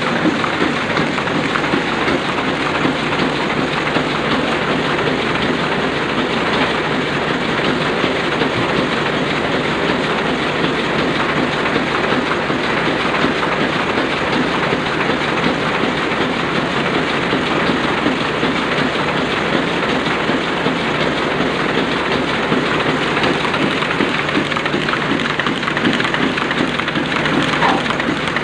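Sakurai Oliver 66 sheet-fed offset printing press running, a steady, continuous rapid mechanical clatter.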